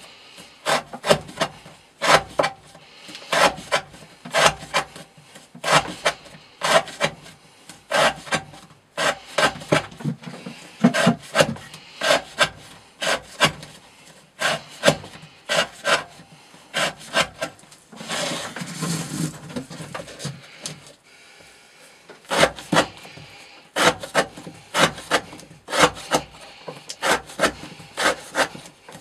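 Knife blade worked in quick, repeated short scraping strokes, two to four a second in runs with brief pauses, and a steadier rasping stretch about two-thirds of the way through.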